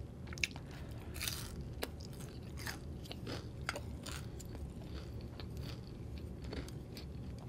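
Close-miked chewing of a mouthful of food: soft mouth sounds with many small, scattered clicks and crunches.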